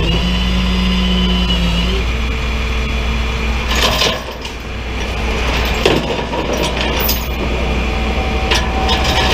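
Vehicle engine running steadily, with a whine in the first two seconds and several sharp knocks about four, six, seven and eight and a half seconds in.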